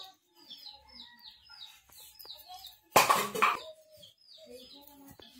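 Birds chirping, a steady run of short falling chirps several times a second. About three seconds in comes a loud, harsh rasp lasting about half a second.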